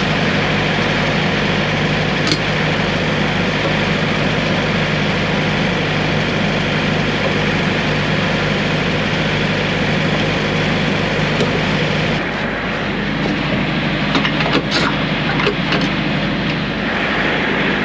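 Semi truck's diesel engine idling steadily. About two-thirds of the way through the engine note shifts, and a few short clicks or knocks follow.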